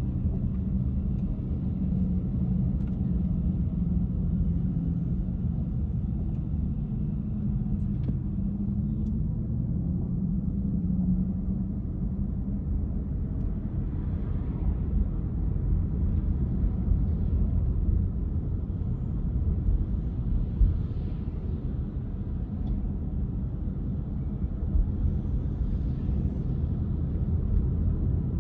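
A car being driven: a steady low rumble of engine and road noise. In the second half there are a few faint swells of hiss, and a brief thump comes about twenty seconds in.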